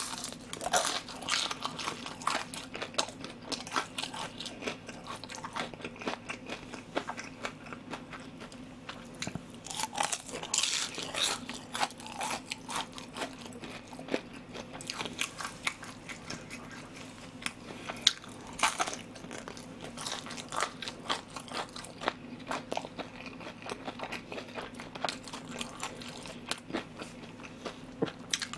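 Close-up chewing of crispy deep-fried pork in soy-sauce glaze (ganjang tangsuyuk), with irregular crunches of the batter all through.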